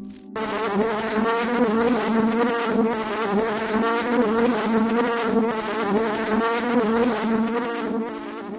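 Flying insect buzzing steadily, its pitch wavering slightly. The buzz starts abruptly just after the start.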